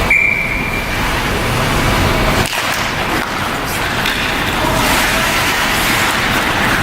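Ice hockey arena din: a steady wash of crowd and rink noise, opened by one short referee's whistle blast.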